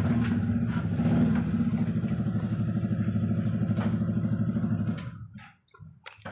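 Toyota Vios four-cylinder engine running with a steady, even beat and no misfire, after its spark plugs were cleaned and regapped and the ignition coil arcing was fixed. About five seconds in, the engine sound drops away, leaving a few light clicks.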